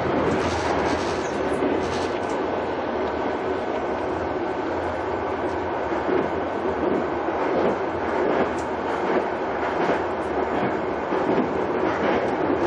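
Passenger train running at speed, heard from inside the carriage: a steady rumble of wheels on rail, with a faint steady whine and a few light knocks.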